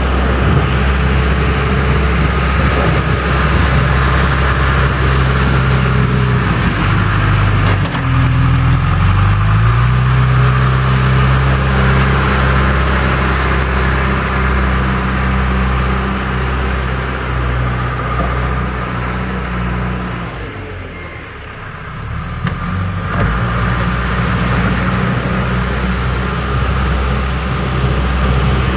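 John Deere 310E backhoe loader's diesel engine running under load while scraping up ice. Its pitch rises about a third of the way in, and the sound drops off briefly about two-thirds through before picking back up.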